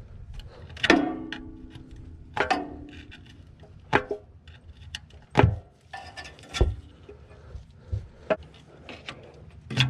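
Metal hand tools being handled: two ringing metallic clanks about a second and two and a half seconds in, then a few scattered sharp clicks and knocks. This fits searching for a screwdriver among tools.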